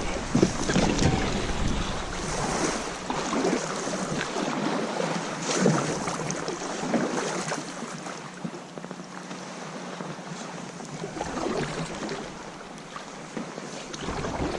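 Water lapping and splashing against a Hobie Outback kayak's hull, with wind buffeting the microphone. The wind rumble eases about four seconds in and picks up again near the end.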